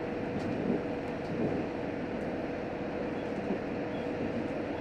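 Running noise of a JR Hokkaido H100 diesel-electric railcar, heard from inside the car: a steady rumble of wheels and machinery with a steady hum.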